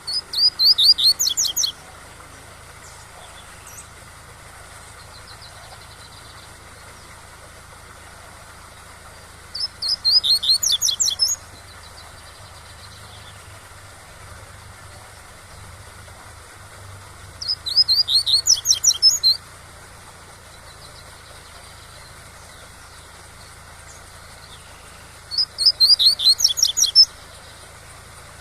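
Coleiro (double-collared seedeater) singing the tui-tui song: four short phrases of rapid repeated notes, each under two seconds, spaced about eight seconds apart. A steady waterfall rushes underneath.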